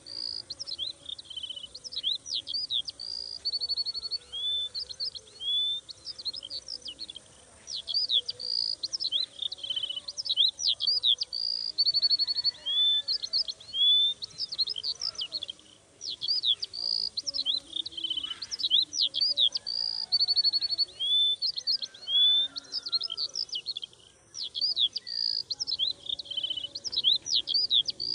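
Songbirds singing: quick chirps, up-and-down whistled sweeps and short rapid trills. The same run of phrases comes round again about every eight seconds.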